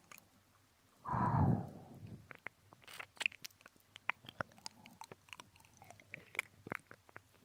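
Close-miked binaural ASMR ear-licking: a breathy exhale into the ear about a second in, then irregular wet licking and smacking clicks of the mouth at the ear.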